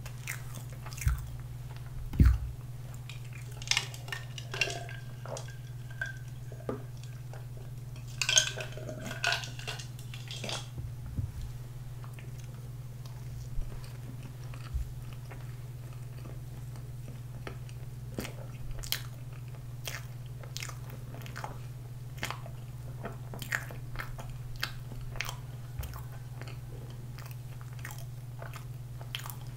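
Close-miked chewing of soft pandoro bread with whipped cream: scattered wet mouth clicks and smacks, a few louder knocks in the first seconds, over a steady low hum.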